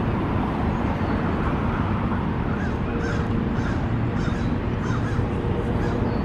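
A run of short, repeated bird calls, about two or three a second, starting partway in over a steady rushing background noise.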